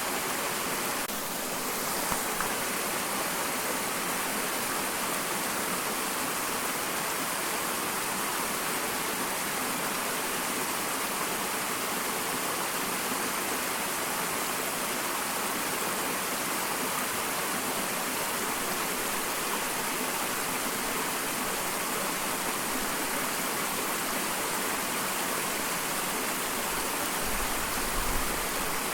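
Small waterfall: water falling and running with a steady, even rush. A brief low rumble comes near the end.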